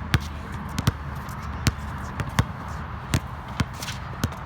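A ball bouncing repeatedly on a hard floor, one sharp bounce about every three-quarters of a second, like steady dribbling.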